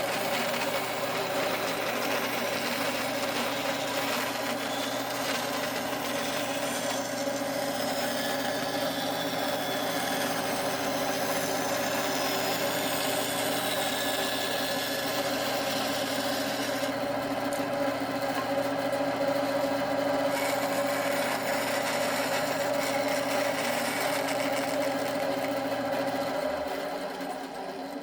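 Stationary woodworking power tool running steadily with a motor hum while wood is worked against it; it is switched off near the end and winds down.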